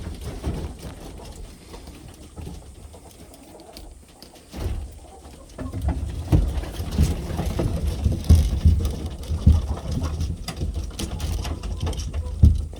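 Footsteps while walking, with irregular low thumps and rumble from the handheld camera being carried, growing heavier about halfway through.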